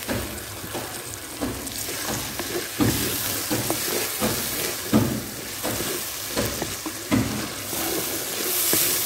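Onion-tomato masala sizzling in ghee in a clay pot, with a splash of water just added. A wooden spatula stirs and scrapes it, knocking irregularly against the earthenware. The sizzle grows louder near the end.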